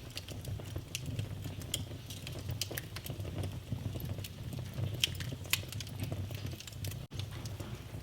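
Wood fire crackling in a fireplace: irregular snaps and pops over a low steady rumble. The sound cuts out for an instant near the end.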